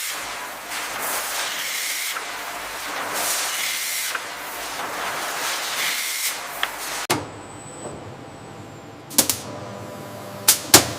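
Processing machinery: a loud spray-like hiss that swells and fades for about seven seconds, then cuts off suddenly to a low steady machine hum. Several sharp clicks and knocks sound near the end.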